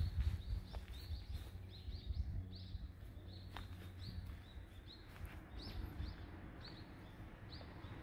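A small bird chirping over and over, short high chirps about two a second, over a low steady background rumble.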